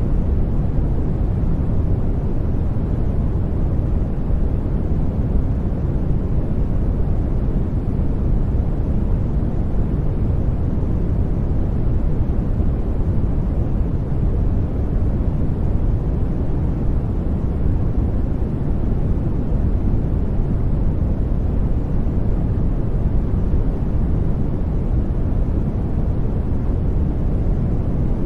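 Steady sleep noise track, an even hiss with most of its weight low down, giving it a deep, dark tone. It holds constant, with no changes or separate sounds.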